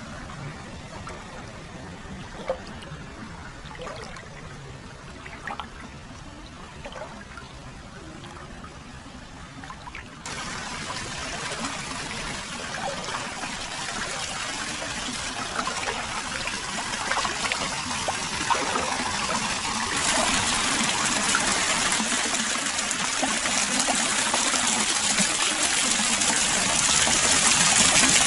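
Hot spring water flowing continuously into an open-air foot bath, trickling and splashing with small drips at first. It gets suddenly louder and fuller about a third of the way in, and louder again about two-thirds of the way in.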